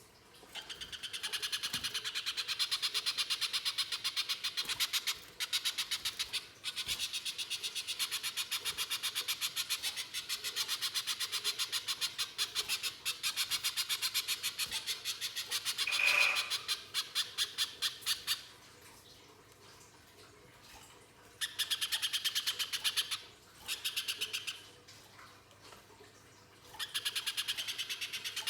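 Spiderhunter (pijantung pisang) singing in long runs of rapid, harsh repeated notes, about ten a second, broken by short pauses.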